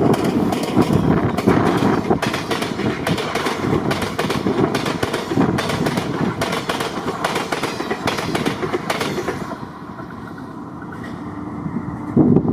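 Electric-hauled train passing close by, its wheels rumbling and clattering with many sharp clicks over the rail joints. The sound falls away about nine and a half seconds in, then builds again near the end.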